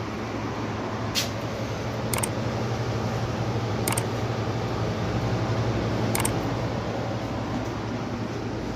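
Window air conditioner running: a steady low hum with airflow noise, and four short sharp clicks along the way.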